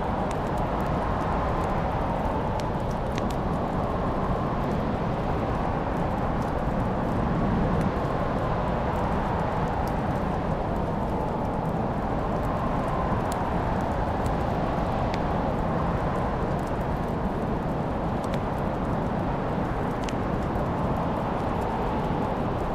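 Wood fire in a fireplace crackling, with scattered sharp pops over a steady rushing noise.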